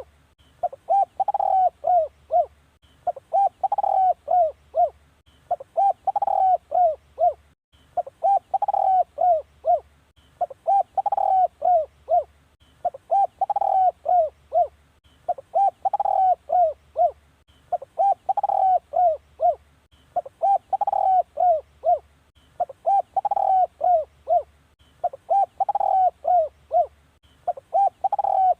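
Spotted dove song: a phrase of several short, falling coos, repeated evenly about every two and a half seconds. It is a dove-calling track used to lure wild spotted doves to a decoy bird.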